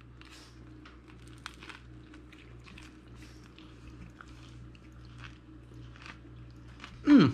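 A person biting into a soft taco and chewing it, heard close up as a string of small wet clicks and crackles. Just before the end, a short loud voice sound falls in pitch.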